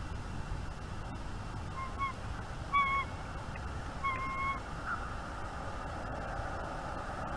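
A bird calling three times: short, level-pitched notes about a second apart, the last one longer, over a steady outdoor hiss.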